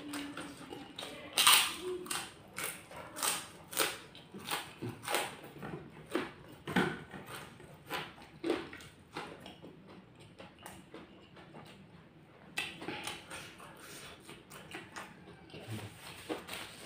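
Close-miked eating sounds: crunching of kerupuk crackers and chewing of rice with sambal, sharp crunches coming about once or twice a second, easing off for a few seconds past the middle before starting again.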